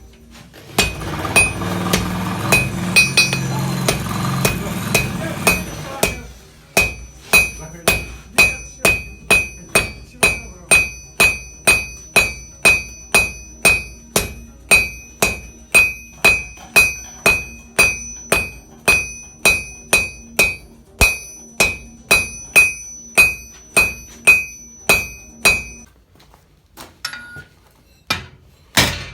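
Blacksmith's hammer striking hot iron on an anvil while forging a nail, in a steady rhythm of about two to three blows a second, each with a bright metallic ring. For the first six seconds a steady rushing noise runs under the blows. The hammering stops about 26 seconds in, leaving a few light clinks.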